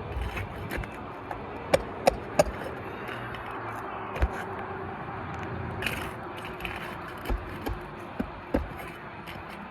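Sharp taps and clicks from prying up asphalt shingles and working out roofing nails: three loud ones in quick succession about two seconds in, then a few more scattered later, over a steady outdoor hiss.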